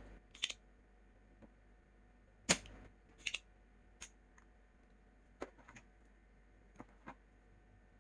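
Irregular sharp clicks and taps of small hard objects, about eight in all, the loudest about two and a half seconds in.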